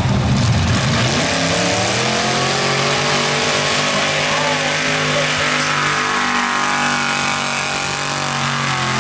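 Big-block V8 of a tractor-tire mud truck running flat out. Its pitch climbs a little in the first couple of seconds, then holds steady and loud.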